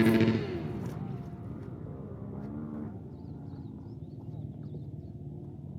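Dirt bike engine passing close, loudest right at the start with its pitch sliding down, then a second engine revving up and dropping off near the three-second mark over steady engine noise.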